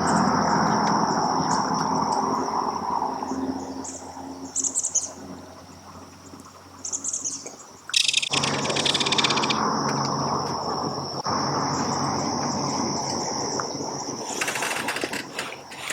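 Belted kingfisher giving its rattling chatter in short bursts, the longest about eight seconds in, over a steady high insect drone and a rushing background noise.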